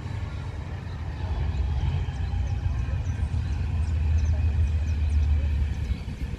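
Steady low rumble of a heavy engine, growing louder about four seconds in and easing off near the end. Faint high chirps sound over it.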